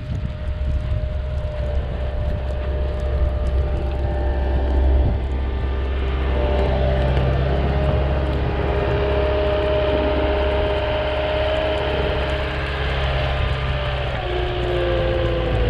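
Compact skid steer's diesel engine running under load while plowing snow, a steady low rumble with a steady hydraulic whine over it. The whine drops slightly in pitch near the end.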